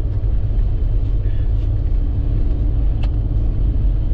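Toyota Land Cruiser 95 on 37-inch tires driving through unplowed snow: a steady low rumble of engine and tyre noise, with one sharp click about three seconds in.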